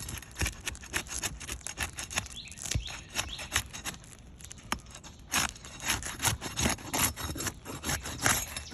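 Roof shingle tabs being handled and lifted: dense, irregular crackling and scraping, busier in the second half. The cracking is a sign that the shingles are too brittle to lift for repair.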